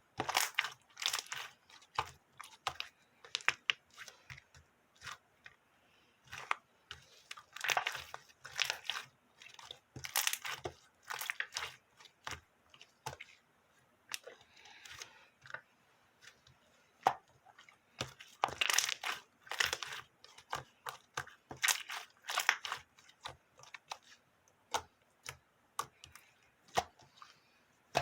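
Slime being squeezed, stretched and pressed by hand, giving a dense, irregular run of crackling and popping clicks.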